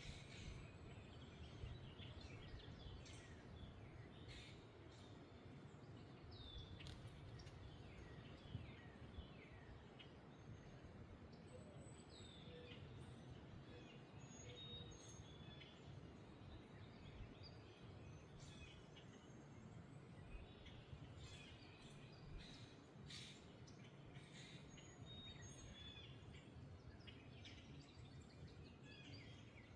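Faint wind rumbling steadily, with many small birds chirping and calling in short quick notes and downward sweeps throughout.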